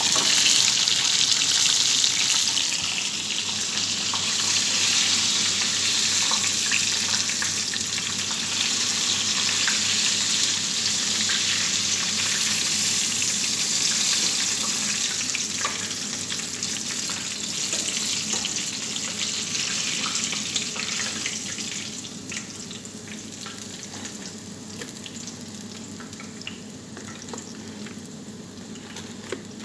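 Breaded chicken pieces deep-frying in hot oil in a stainless steel pan: a loud, steady sizzle with a few light clicks of metal tongs. The sizzle drops off after about twenty seconds as the cooked chicken is lifted out of the oil.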